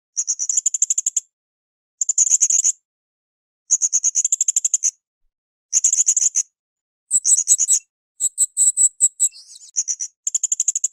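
Blue-crowned hanging parrot (srindit) calling in repeated bouts of rapid, high-pitched chattering notes, each bout about a second long, with short pauses between. About eight seconds in, one bout runs longer, with more varied notes.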